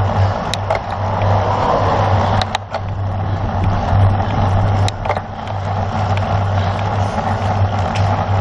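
Wind rushing over the camera's microphone as a road bicycle races along, with a steady low hum underneath and a few sharp clicks.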